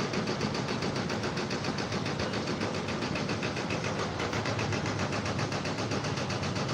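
Machinery running steadily with a fast, even mechanical pulsing, several beats a second, typical of an engine-driven machine.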